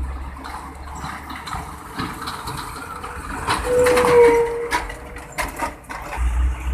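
Road traffic passing through an intersection: a heavy engine rumble fades at the start and a lorry's deep engine rumble returns near the end. In between come tyre noise, several rattles and clicks, and a short high tone lasting about a second, around four seconds in.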